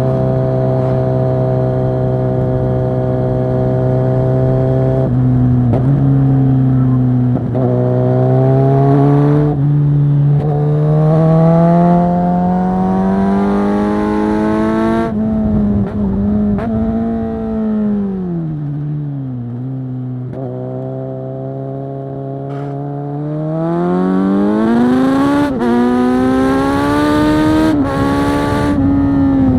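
Kawasaki Z900 SE inline-four engine through a Zard full-system exhaust, heard on board while riding. It holds a steady note, then revs up through the gears, with the pitch dropping briefly at each shift. It slows to a lower note and then accelerates hard again.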